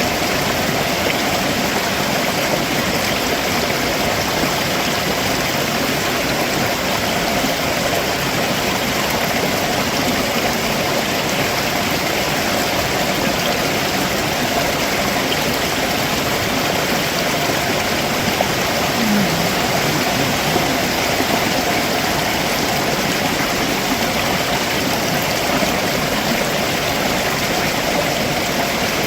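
Stream water running over rocks below a waterfall: a steady, even rushing that does not change.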